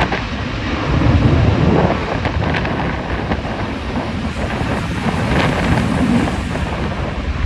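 Strong gusting wind buffeting the microphone: a heavy low rumble that swells and eases every second or two, with a few sharp knocks, over a faint steady high whine.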